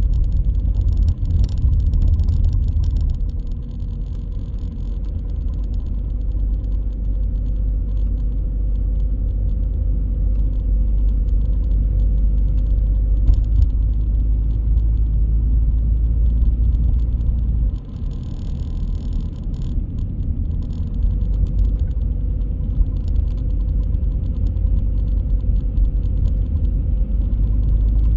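Car driving: a steady low rumble of engine and tyre noise with light scattered rattles. The rumble eases briefly about eighteen seconds in, then returns.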